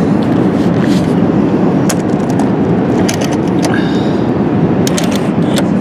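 Steady cabin noise of an Airbus A380 at cruise: the rush of airflow and engine noise heard from a window seat, with a few light clicks over it.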